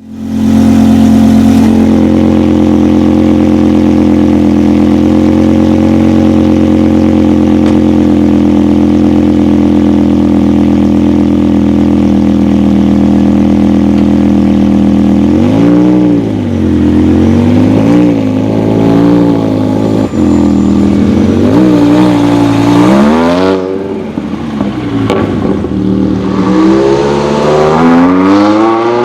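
Wiesmann MF5's BMW M5 V10 with a Lector exhaust, idling steadily for about fifteen seconds. It then gives five or so quick throttle blips and pulls away, its note rising steadily near the end.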